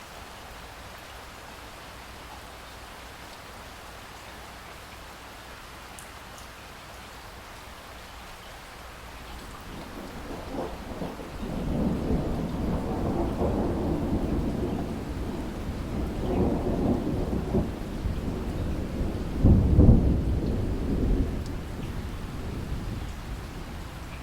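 Steady rain falling, with a long roll of thunder that builds from about ten seconds in, swells in several waves, and is loudest in one heavy clap near the end before easing off.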